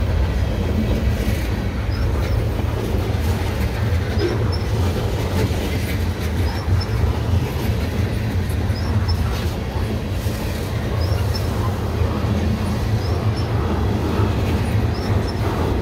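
Freight train's tank cars rolling past: a steady heavy rumble of steel wheels on the rails, with light paired clicks from the wheels recurring about every two seconds.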